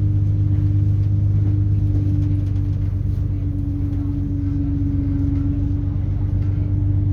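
Inside a British Rail Class 170 Turbostar diesel multiple unit under way: the underfloor MTU turbo diesel and Voith hydraulic transmission give a steady low drone with a whining tone above it. The tone sags slightly about halfway through and comes back.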